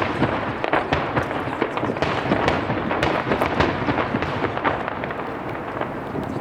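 Starmine fireworks barrage: many shells bursting in quick succession, giving a dense run of overlapping bangs and sharp reports.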